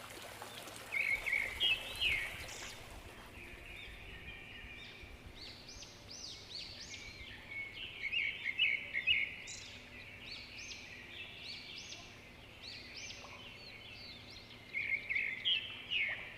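Small birds chirping in bursts of quick, high calls over a faint steady background. The louder bursts come about a second in, around eight to nine seconds in, and near the end.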